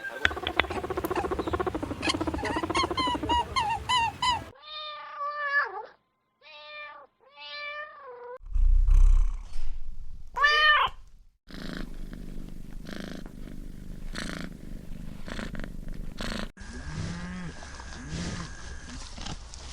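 A string of short animal-call recordings spliced one after another with abrupt cuts. Near the start there is a run of pitched calls. Then come three short calls that rise and fall in pitch, then a single louder call, and two more differing animal clips follow.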